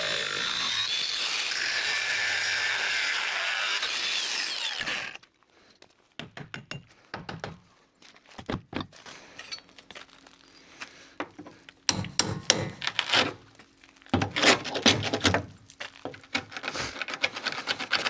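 A power tool cuts through old rusty bolts with a steady whine, then stops suddenly about five seconds in. After that come scattered knocks and clatters of metal and timber being handled, in busier clusters near the end.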